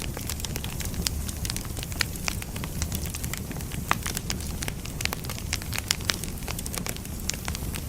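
Wood fire burning: firewood crackling and popping in sharp, irregular snaps over a steady low rumble of the flames.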